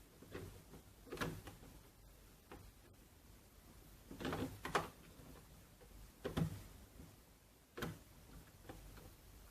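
Scattered light clicks and knocks of hard parts being handled on a workbench, a few a second at most, with the loudest cluster about halfway through and a sharp click near the end.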